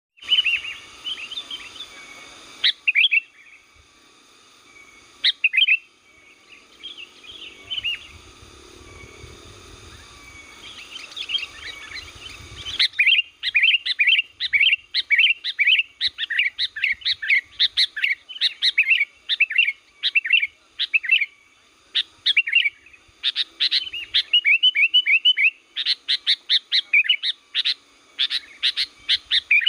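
Sooty-headed bulbul singing lively chirpy phrases, sparse at first, then a dense, fast run of chirps from about halfway through.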